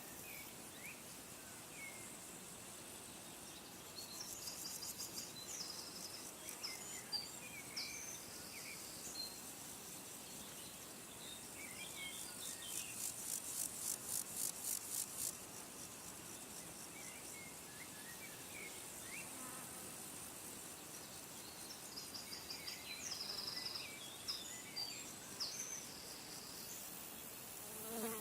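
Outdoor nature ambience: high-pitched, rapidly pulsing insect trills over a faint steady hiss, with scattered short bird chirps. The trills are loudest about halfway through.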